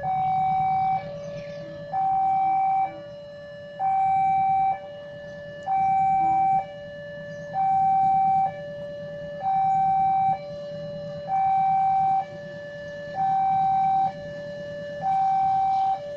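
Two-tone electronic alarm alternating between a higher and a lower note, each held about a second and repeating steadily, the higher note louder. A steady low hum runs underneath.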